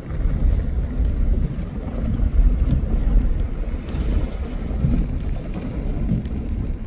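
Strong gusty wind blowing across the microphone, a low buffeting that swells and eases every second or so.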